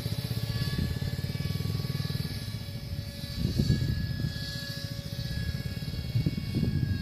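Electric motor and propeller of a radio-controlled Icon A5 seaplane model, a steady droning whine, over a low rumble that swells about halfway through and again near the end.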